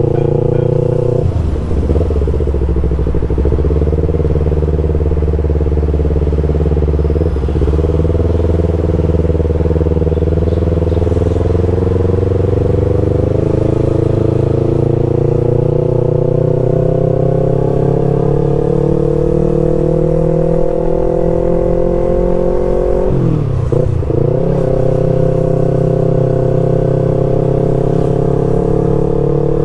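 Yamaha R25 parallel-twin motorcycle engine running under way through a ProSpeed full-system exhaust whose glasswool packing is three years old, which the rider says has changed its once deep note. The engine note climbs slowly over about fifteen seconds, with short breaks in it about a second and a half in, around seven seconds and near the end.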